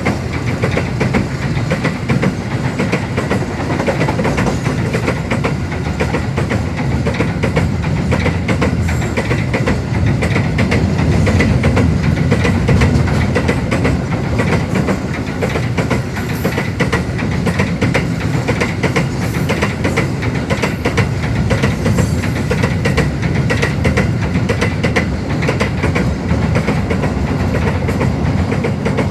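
A train passing at speed on the station tracks: a steady, loud rumble of wheels on rail, with continuous clickety-clack clatter. It cuts off suddenly at the end.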